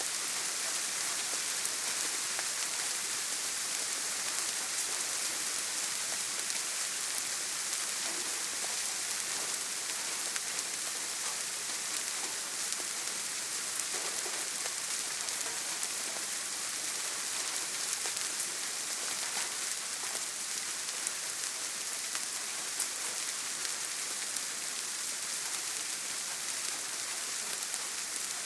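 Steady rain drumming on a tin roof: a dense, even hiss with scattered individual drop ticks.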